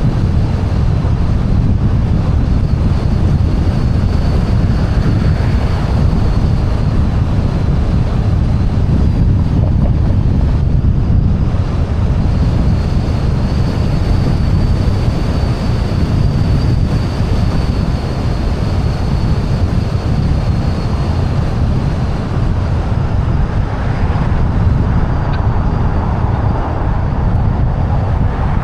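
Wind rushing over the microphone of a car-roof-mounted DJI Osmo 360 camera while driving, mixed with tyre and traffic noise: a loud, steady low rumble.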